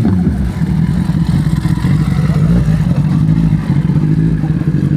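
Vehicle engines running with a steady low hum, with faint rises and falls partway through. At the very start, the falling exhaust note of a vehicle that has just passed.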